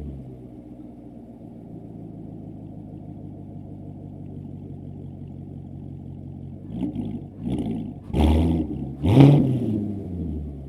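Chevrolet Corvette C7's 6.2-litre V8 through a straight catback exhaust, idling steadily. About two-thirds of the way in come two short light throttle blips, then two sharp revs near the end, each climbing in pitch and falling back to idle.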